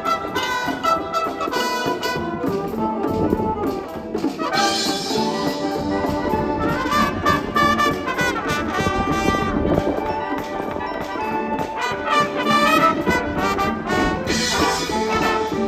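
School wind band playing, brass carrying the melody, with a bright crash about four and a half seconds in and again near the end.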